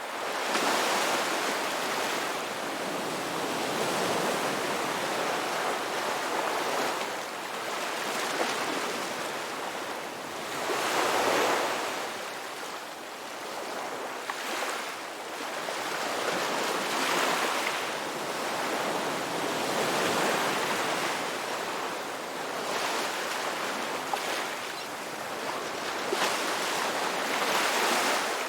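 Ocean surf washing onto a beach, a steady rush that swells and ebbs every few seconds as waves break and draw back.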